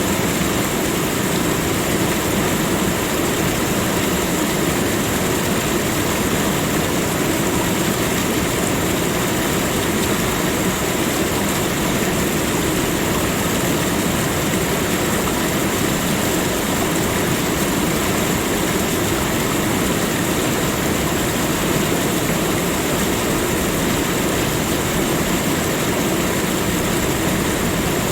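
A steady, unbroken rushing noise with no distinct events: a continuous nature ambience.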